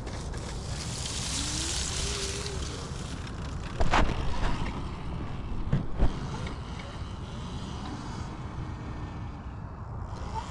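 Dirt bike engine revving up and down at a distance under wind noise on the microphone, with two sharp knocks about four and six seconds in.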